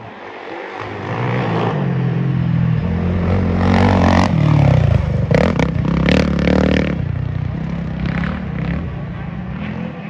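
Motocross race engine of a dirt bike or ATV passing close on the track: it grows louder over the first few seconds, revs hard with rattly, clattering bursts in the middle, then fades as it moves away.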